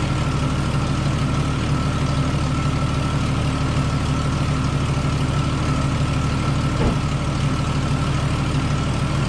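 1998 Jeep Cherokee XJ engine idling steadily, with a thin steady whine above it and a brief click about seven seconds in.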